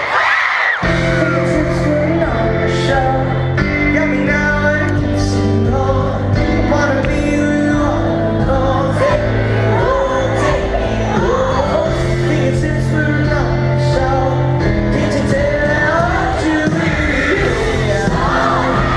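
Live pop-rock band playing a song with a voice singing the lead, while an audience screams and cheers over it.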